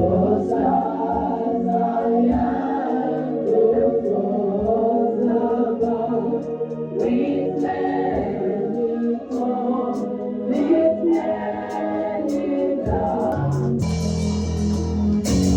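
A choir singing a gospel song over organ accompaniment, with the accompaniment swelling about 14 seconds in.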